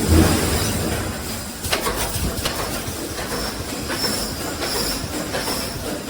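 Automatic concrete reinforcing mesh welding machine running, a dense clattering with sharp metal knocks now and then and a high whine that comes and goes.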